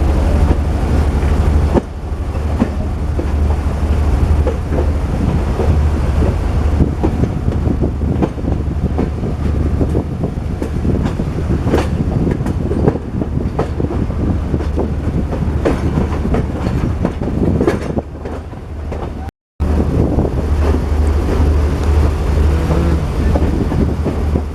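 A train running on the rails, its wheels clacking over the rail joints above a steady low rumble. The sound breaks off briefly about 19 seconds in and then resumes.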